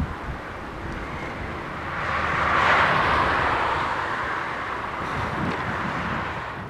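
A road vehicle passing: its tyre and road noise rises to a peak about three seconds in, then slowly fades away.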